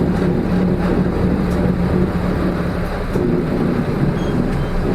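Engine and road rumble of a Hino Rainbow RM (KK-RM252GSN) city bus under way, heard inside the cabin as a steady hum. The bus is known for an abnormal engine noise.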